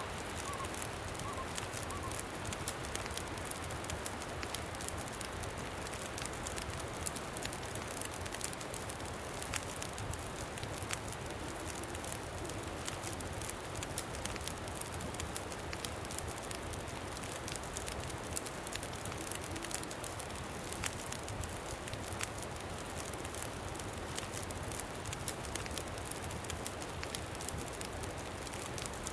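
Campfire crackling, with frequent small pops and snaps over a steady low rush of wind.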